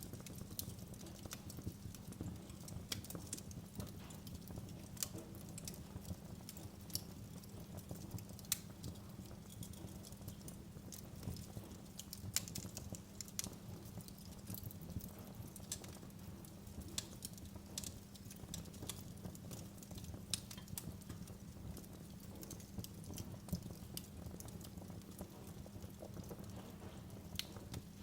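Wood fire burning in a fireplace, crackling: irregular small sharp pops and snaps over a steady low rumble of the flames.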